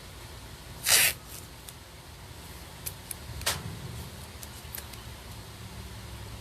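Handling noises from the tic-tac-toe craft work: a short scratchy rustle about a second in, then a sharp tap and a few light clicks, over a low steady hum.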